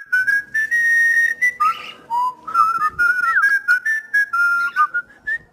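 Cockatiel whistling a tune: a string of clear whistled notes, some held and some gliding up or down, with a couple of short raspy chirps mixed in.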